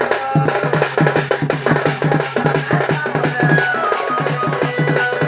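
Folk dance music: fast, dense drumming with a few held melody notes above it.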